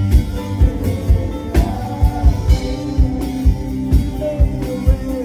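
Worship band music: sustained instrumental chords over a steady drum beat of about two thumps a second.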